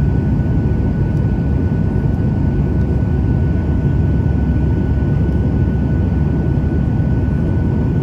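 Boeing 737-800 cabin noise in flight: a steady, heavy rumble of airflow and jet engines, with a thin steady whine above it.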